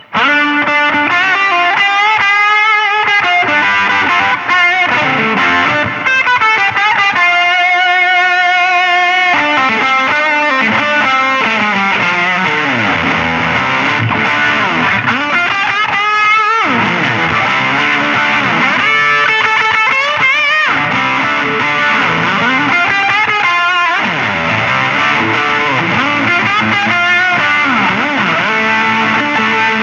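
Electric guitar played through an MXR Classic 108 Fuzz Mini fuzz pedal, buffer on and fuzz nearly full, into a Fender Champion 20 amp. It plays thick, sustaining fuzz-distorted lead lines with string bends and vibrato on held notes.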